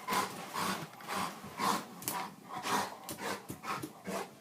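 A dog worrying a dropped Master Lock padlock, with short noisy sounds about twice a second as it pants and paws at the lock.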